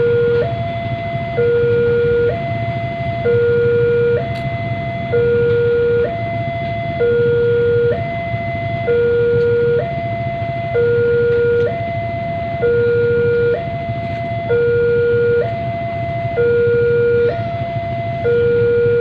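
Electronic two-tone siren sounding a steady hi-lo pattern, the high and low notes alternating about once a second, over a low steady vehicle rumble.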